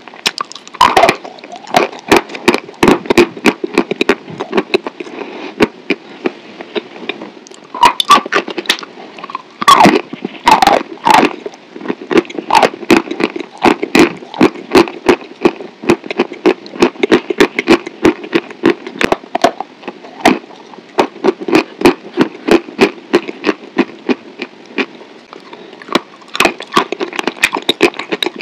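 Close-miked mouth sounds of someone chewing soft, sticky food: a dense run of wet clicks and smacks of the lips and tongue, several a second.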